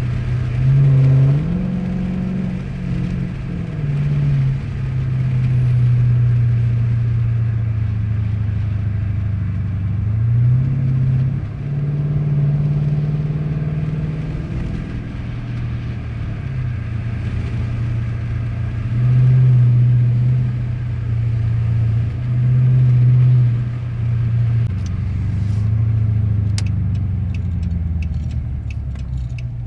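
2013 Dodge Charger's engine and exhaust running under way, loud, its low drone stepping up and down in pitch as the revs rise and fall several times. A run of light clicks near the end.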